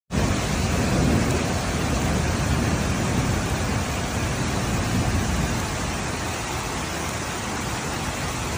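Torrential rain pouring down steadily, with a deep rumble underneath.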